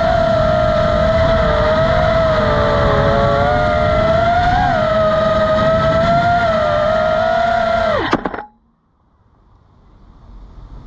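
6-inch FPV quadcopter's electric motors and propellers whining at a steady pitch that wavers slightly with throttle, with wind rumbling on the microphone. About eight seconds in the whine drops sharply in pitch, there is a short knock, and the motors stop.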